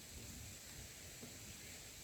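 Quiet background: a faint steady hiss and low rumble, with a couple of tiny soft ticks and no clear event.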